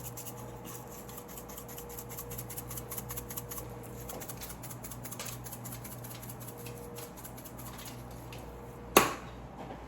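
Spice shaker being shaken over ribs, a quick run of small rattling clicks that thins out after about four seconds, then one sharp knock near the end as something is set down or snapped shut.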